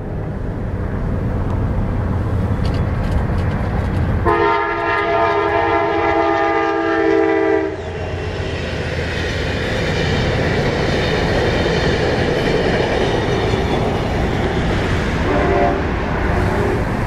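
Passing train with a steady rumble, its locomotive air horn sounding one long chord of about three seconds a few seconds in, then a short second horn blast near the end.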